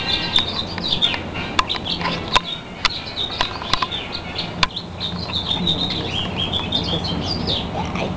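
Small birds chirping continuously in many quick, overlapping high notes, with a few sharp clicks in between.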